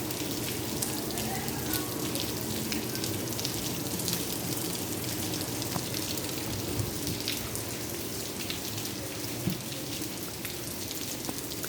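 Steady rain falling: a constant hiss dotted with the ticks of individual drops striking.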